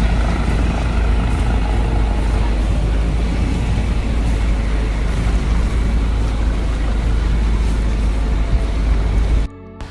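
Motorboat under way: a steady low engine rumble mixed with rushing wind and water noise, cutting off suddenly near the end.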